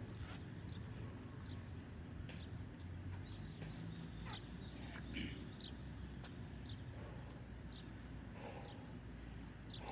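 Birds chirping now and then in short, faint calls over a steady low outdoor rumble.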